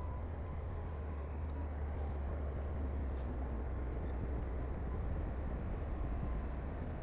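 Heavy diesel earthmoving machinery running steadily: a deep, even engine rumble with a faint steady whine over it.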